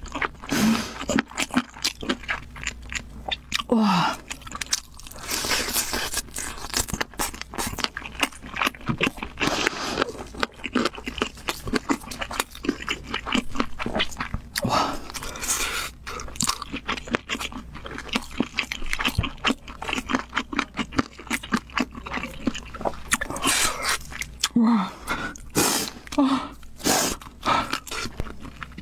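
Close-miked eating sounds: crunching and chewing with many sharp mouth clicks, broken by a few short vocal noises from the eater near the start, about four seconds in and near the end.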